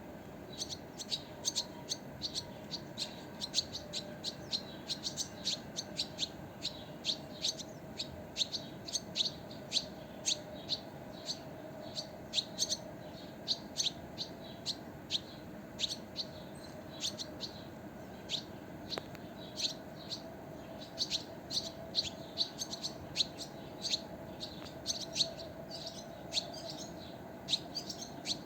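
Small birds chirping, short high chirps coming several a second throughout, over a faint steady hum.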